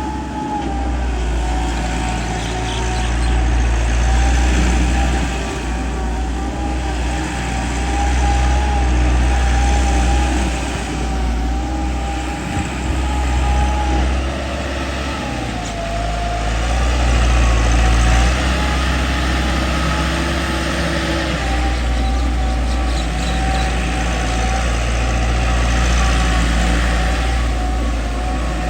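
Massey Ferguson 385 tractor's diesel engine running steadily, its note swelling and easing every few seconds, with a steady whine over it.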